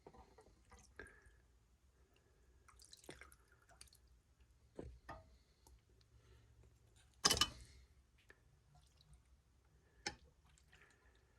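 Faint handling noises from work on engine parts: scattered small clicks and knocks, with one louder clatter about seven seconds in and a sharper knock near the end.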